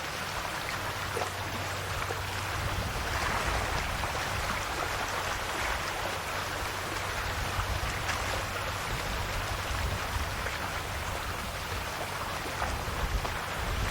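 Calm sea waves washing gently on the shore: a steady fizzing wash of water with faint small splashes, over a low steady rumble.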